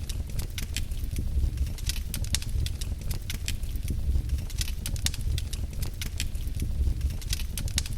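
Wood fire crackling in a fireplace, with many sharp, irregular pops and snaps over a steady low rumble of the flames.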